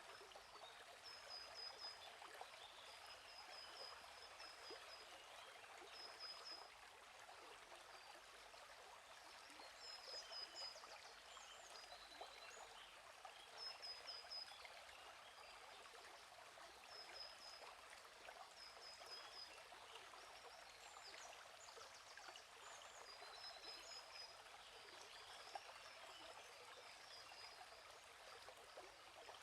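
Faint, steady burbling of a flowing stream, with small birds giving short, high chirping trills every few seconds.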